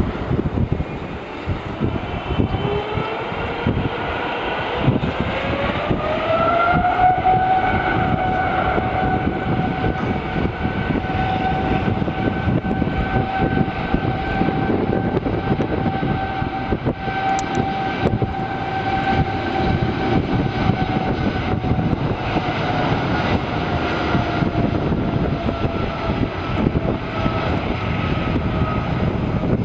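Boeing 777-300ER's GE90-115B turbofan engines spooling up to takeoff thrust: a whine rises over the first several seconds, then holds steady over a heavy jet roar, and sinks a little in pitch near the end.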